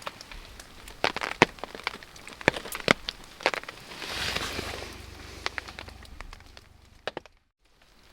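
Wood campfire crackling, with sharp irregular pops and snaps over a steady hiss. There is a brief softer swell of hiss partway through.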